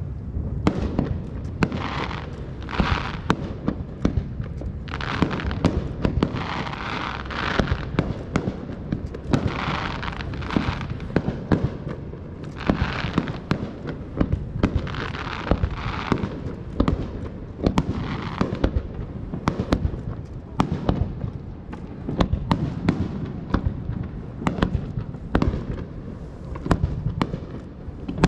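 Aerial fireworks display: a rapid, continuous string of bangs, with bursts of crackling every second or two through the first two-thirds.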